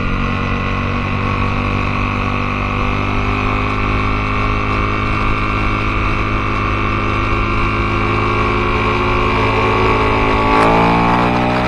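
Aprilia Tuono motorcycle engine running at steady revs, its pitch holding level, then the revs changing about ten seconds in.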